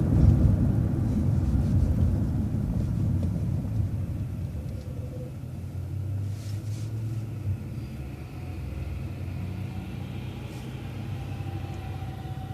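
City transit bus running, its engine and tyre rumble heard from inside the bus. The rumble is loud at first and eases off after about four seconds, leaving a steadier, quieter hum.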